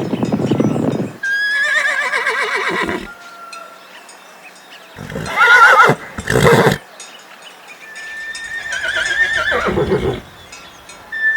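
Horse neighing: three whinnies, each with a quavering pitch that falls away at the end.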